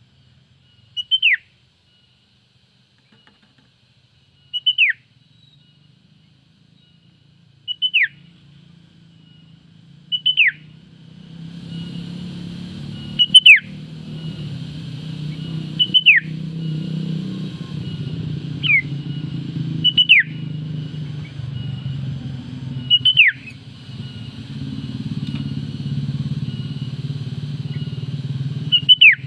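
Female sooty-headed bulbul (kutilang) giving a short, sharp call that drops steeply in pitch, repeated about nine times at intervals of two to four seconds; this is the call used to draw in a rival. About a third of the way in, a low steady rumble with a faint hiss rises underneath and continues.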